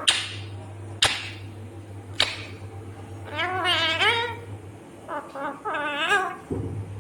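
Indian ringneck parrot calling: three sharp, short squawks about a second apart, then two longer warbling calls that waver up and down in pitch.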